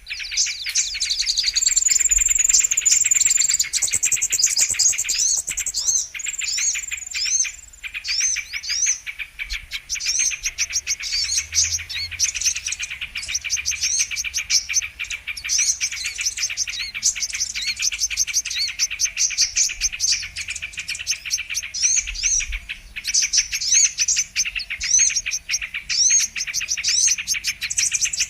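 Brown-throated sunbird (kolibri kelapa) calling: fast, high, sharp chirps and twitters in an almost unbroken stream, as in a bird-lure recording.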